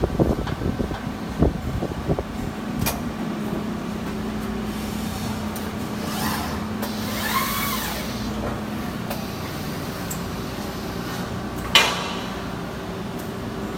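Gang-type CNC lathe with gantry loader running: a steady machine hum, a cluster of sharp clacks in the first couple of seconds, a rising whine about six to eight seconds in, and one short, loud sharp burst near the end.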